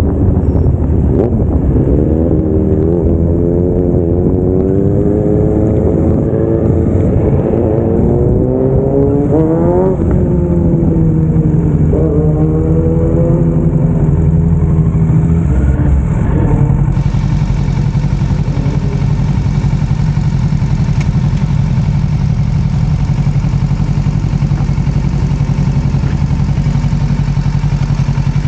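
Kawasaki Ninja 650 parallel-twin engine under way, its pitch rising and falling with the throttle and gear changes, then settling to a steady low note a little past halfway.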